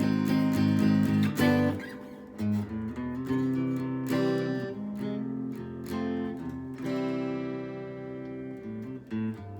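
Squier Stratocaster electric guitar played clean with reverb through a Fender Tone Master Twin Reverb amp: a few loud strummed chords, then slower single notes and chords left to ring out.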